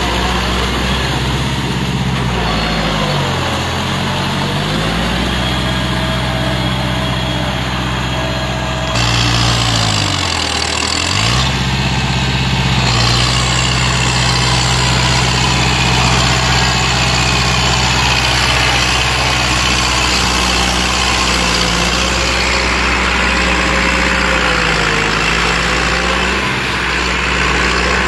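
Diesel farm tractor engine running hard; its revs sag and pick back up three times as it labours under load.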